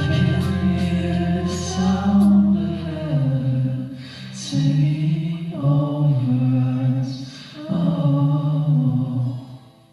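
Singing voices in a slow, largely unaccompanied worship song, in sung phrases, with a steady low held tone beneath the first few seconds. The singing fades out near the end.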